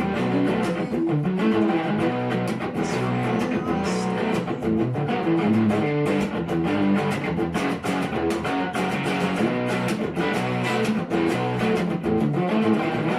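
Guitar played freely in an unbroken improvised passage, a steady stream of notes and chords.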